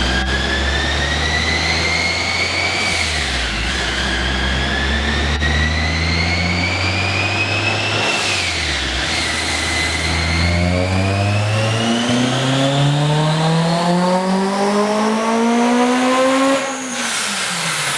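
Boosted Honda S2000 engine on a chassis dyno, making a wide-open-throttle pull. A high whine climbs and drops back twice; then a long pull from about ten seconds rises steadily in pitch, and the engine lets off sharply near the end with the revs falling away.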